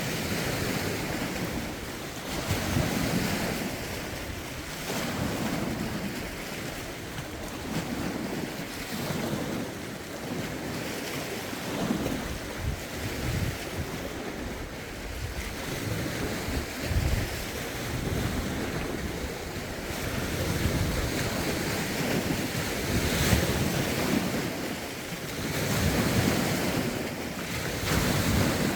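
Lake waves lapping and breaking against the shore in uneven swells every couple of seconds, with wind rumbling on the microphone.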